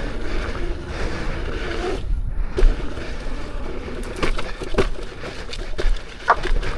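Electric unicycle rolling fast over a rocky dirt trail: a steady rush of tyre and wind noise, with a few sharp knocks in the second half as the wheel takes rocky hits. The suspension is set stiff, with its compression too closed for the rocks.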